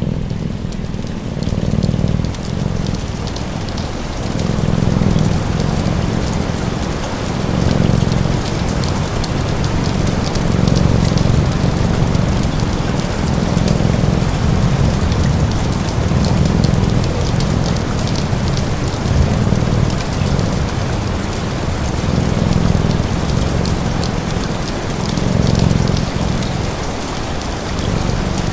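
Steady rain ambience with a low purr-like rumble swelling and fading about every two seconds, the breathing rhythm of a cat purring, and scattered faint crackles from a wood fire.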